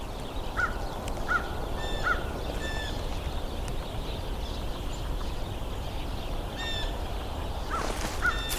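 A flock of house sparrows chirping and squabbling, with short rising call notes: three about a second apart, then two more near the end.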